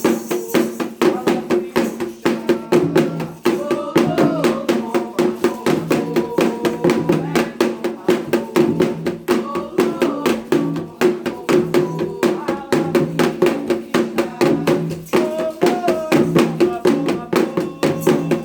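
Candomblé ritual music: hand drums and percussion beaten in a fast, steady rhythm while a group of voices sings a chant over them.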